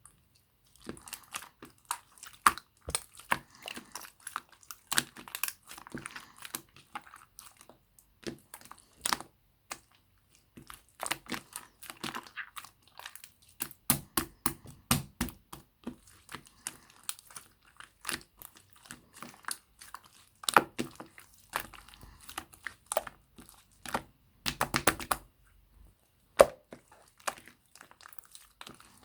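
Clear blue slime with small round mix-ins being squeezed and pressed by hand: rapid, irregular sticky clicks and crackles in clustered bursts.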